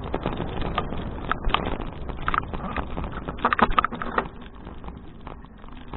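Riding noise from a touring bicycle picked up by a bike-mounted action camera: a steady rumble of wind and road, with scattered rattles and clicks, bunched together around three and a half seconds in. It gets quieter after about four seconds.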